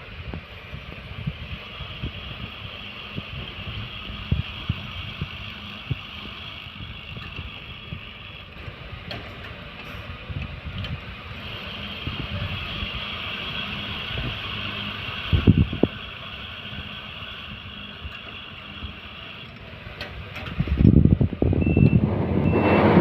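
Ceiling fan running steadily with a hiss, its moving air buffeting the microphone in irregular low thumps. A louder rushing noise builds near the end, with two short high beeps.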